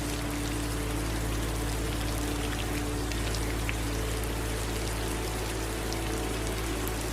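Steady rain falling, with scattered drops pattering, over a low steady hum.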